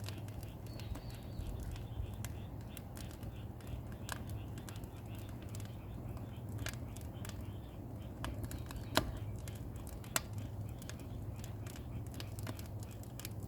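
Small pine-kindling and firewood fire crackling, with scattered sharp snaps and two louder pops about nine and ten seconds in, over a steady low hum.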